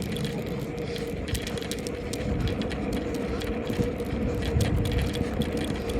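Bicycle riding over a rough road: quick irregular rattling and clicking from the bike's parts over a low rumble and a steady hum.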